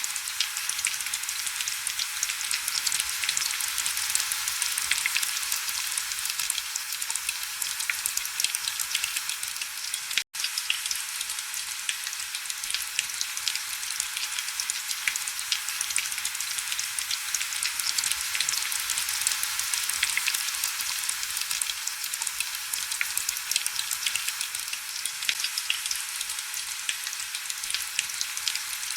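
Heavy rain: a steady, high-pitched hiss dense with the tiny crackling ticks of individual drops, with almost no low rumble. It cuts out for an instant about ten seconds in.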